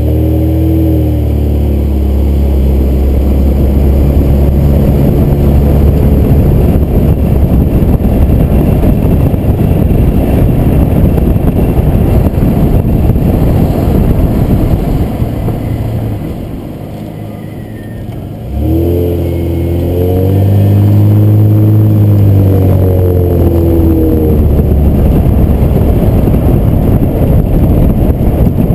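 2007 Nissan Maxima's 3.5-litre V6 pulling away, its note rising, then heavy road and wind rumble at speed. About three-quarters of the way through, the car eases off and slows, then accelerates again with the engine note climbing.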